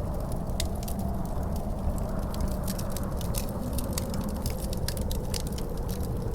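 Wood fire crackling, with many small irregular pops over a steady low rumble. A faint wind howl rises and falls slowly underneath.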